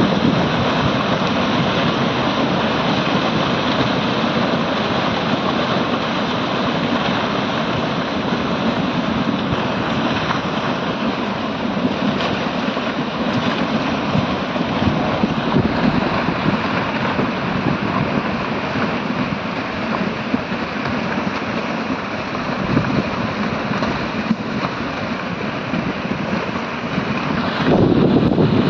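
Mountain stream in flash flood, a debris flow of muddy water carrying stones and rubble, rushing steadily and loudly, with wind buffeting the microphone. It swells a little louder near the end.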